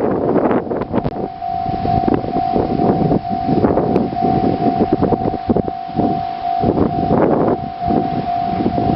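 Railway level-crossing alarm sounding a steady, evenly pulsing tone. Gusty typhoon wind buffets the microphone over it.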